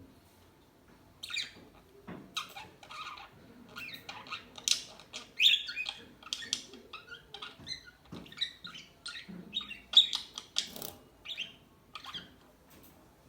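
Pet budgerigars chirping and chattering in many short, quick calls, starting about a second in and keeping up a dense run of chirps with a few louder squawks.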